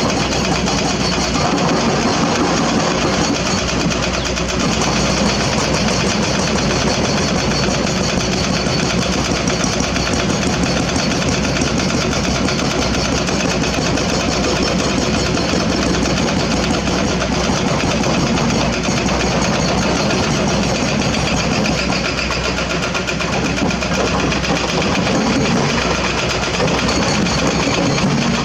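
Diesel engine of a hydraulic excavator running steadily while it works.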